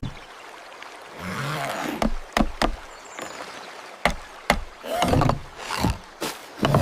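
Sound effects: a series of sharp knocks and thuds, about half a dozen, with rustling, swishing noise between them.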